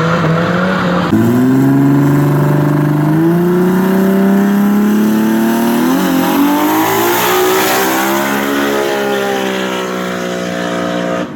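Race car engine accelerating hard on a drag run, its pitch jumping up about a second in and climbing, then falling away later on. The sound cuts off abruptly at the end.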